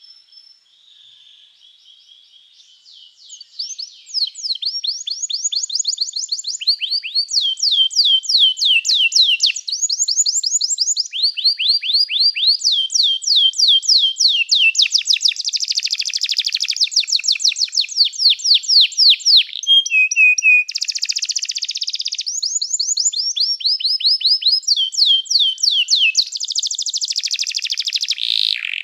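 Domestic canary singing a long song of rolled phrases, each a fast run of quickly repeated high notes, switching to a new phrase every second or two. The song starts about four seconds in, after a faint, quiet stretch.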